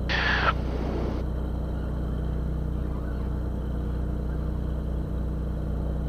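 Beechcraft Bonanza's six-cylinder piston engine idling steadily while the aircraft holds on the taxiway, heard as a low, even drone through the cockpit intercom. A brief burst of radio static hiss sounds right at the start.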